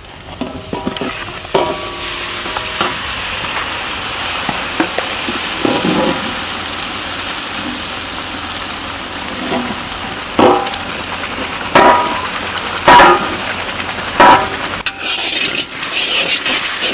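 Food sizzling as it fries in a metal pan while a metal spoon stirs it, scraping and clanking against the pan. Several louder ringing knocks of the spoon on the pan come in the second half.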